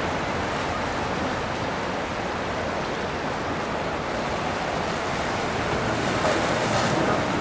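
Steady rushing of water and wind, swelling briefly near the end.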